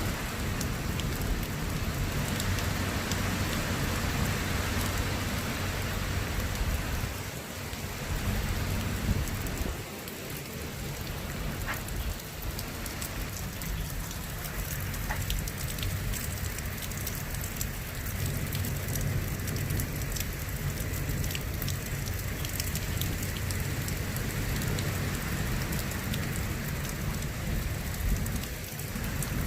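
Steady rain falling during a thunderstorm, with many individual drops ticking sharply close by and a low rumble underneath.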